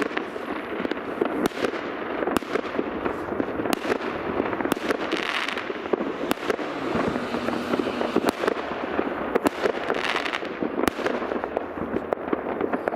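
Many fireworks going off at once in several places, a dense crackle of sharp bangs over a continuous rumble, with hissing swells of crackling shells a few times.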